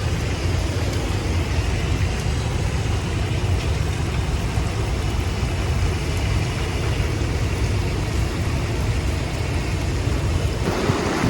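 Strong winter-storm wind: a steady roar with heavy low rumble from the wind buffeting the microphone, growing rougher near the end.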